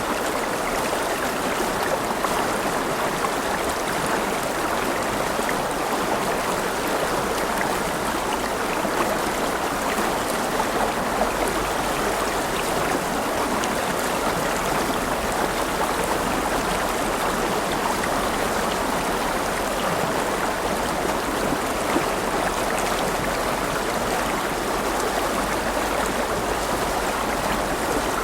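A river flowing over rocks: a steady, even rush of running water with a fine splashing texture.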